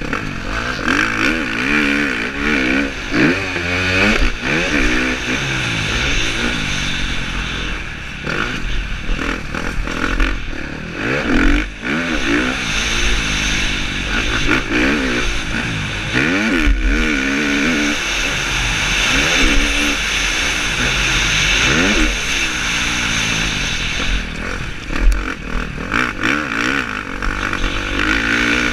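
KTM 350 SX-F four-stroke single-cylinder motocross engine revving up and dropping off over and over as the bike is ridden hard around the track, heard over a steady rush of wind at a helmet-mounted camera.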